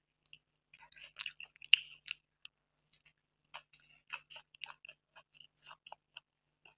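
Close-up chewing of a fried samosa: a run of short crisp crackles and wet mouth clicks, the loudest about a second and a half in.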